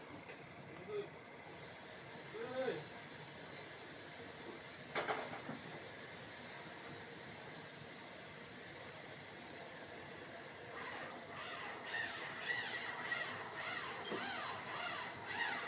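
Steady high-pitched whine of a small electric motor, starting about one and a half seconds in, with a few short knocks. Wavering, warbling tones join in near the end.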